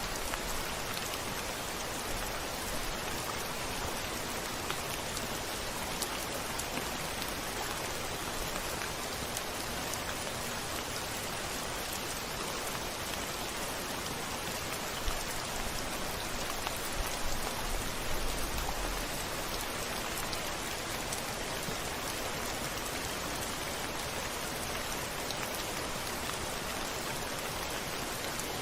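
Steady heavy rain falling, with scattered individual drops ticking against a window pane. A low rumble, distant thunder, swells briefly a little past the middle.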